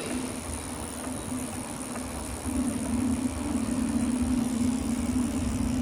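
A motor vehicle's engine running steadily as a low hum with rumble, growing louder about halfway through.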